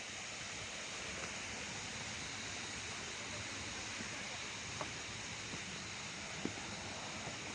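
A steady, even background hiss of the outdoors, with a couple of faint ticks.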